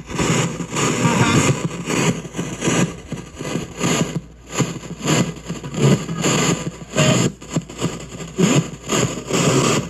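Spirit box sweeping through radio stations, played through a shop radio with noise reduction: a choppy stream of static and clipped scraps of broadcast sound, cutting in and out irregularly.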